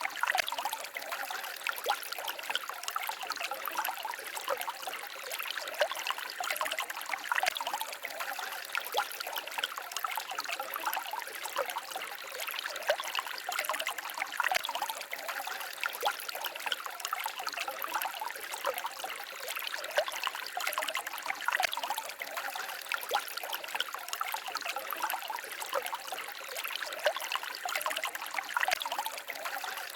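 Small forest stream trickling and babbling over stones, a steady splashing with many little gurgles and no let-up.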